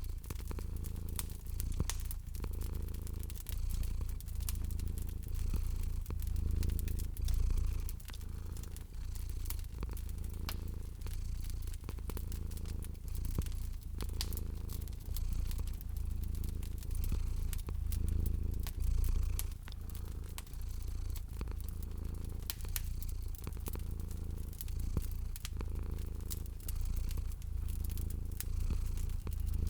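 A domestic cat purring close up, a low rumble rising and falling in slow swells about every two seconds with its breathing. A wood fire crackles over it with scattered sharp pops.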